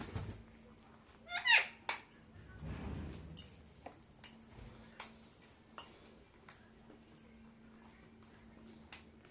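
A pet parakeet gives one short, loud call that sweeps up in pitch about a second and a half in. Scattered light clicks and a soft rustle follow.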